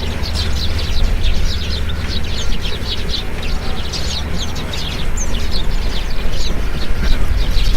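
A flock of small birds chirping in quick, overlapping high twitters, over a heavy low rumble.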